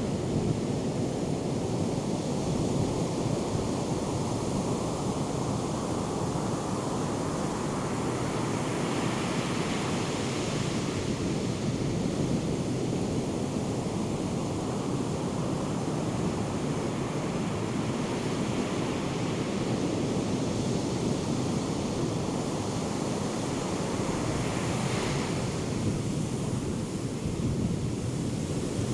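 Ocean surf pounding steadily from a large hurricane swell, with breaking waves swelling louder a few times, and wind buffeting the microphone.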